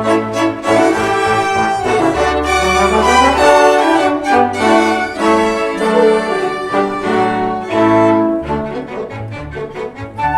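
Church orchestra playing, the string section prominent with violins over cellos and basses.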